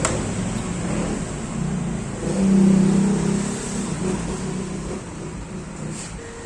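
A motor vehicle engine running, swelling louder about two and a half seconds in, then fading away.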